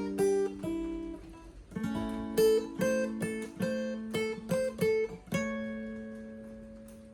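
Guitar playing an instrumental intro, picking single notes and short chords. About five seconds in it lands on a final chord that rings on and slowly fades away.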